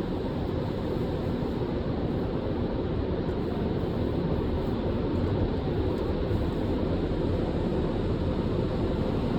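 Steady rushing noise of an automatic tunnel car wash at work, with no breaks or distinct events.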